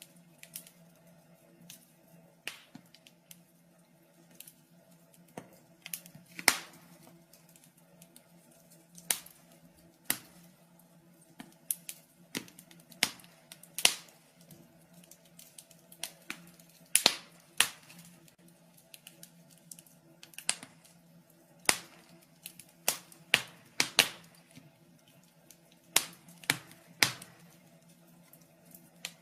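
Wood fire crackling in a fireplace: irregular sharp snaps and pops, a few of them loud, over a faint steady low hum.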